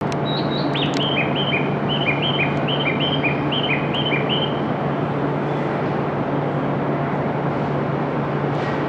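Steady rush and low hum of an E5 series Shinkansen standing at the platform. Over it, for the first few seconds, comes a quick run of bird-like chirps alternating between two pitches.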